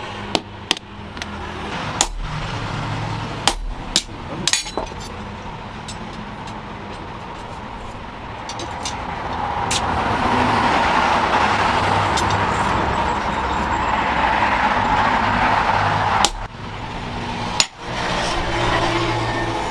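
Hammer strikes on hot metal at a forge, a few sharp blows at the start and again near the end. Between them a steady rushing noise swells up and holds for several seconds before cutting off.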